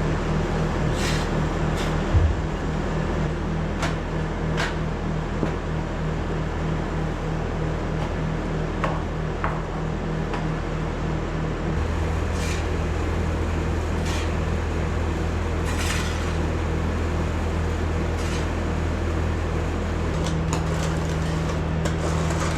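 Skid steer engine running steadily under work, its note shifting about twelve seconds in and again near the end, with a few scattered knocks and clanks.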